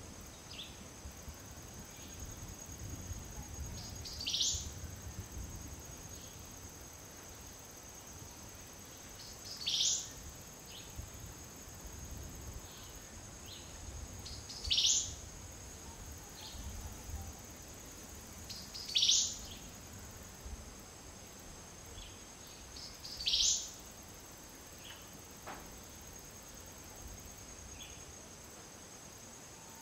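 A bird repeating a short, high call five times, roughly every four to five seconds, over a steady high-pitched insect drone.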